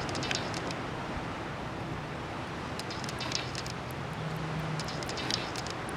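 Steady outdoor background noise, like wind, with short bursts of crackling or rustling just after the start, about three seconds in, and near the end.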